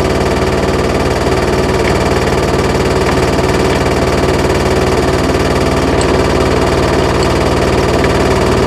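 Land Rover Series II engine ticking over at a steady idle.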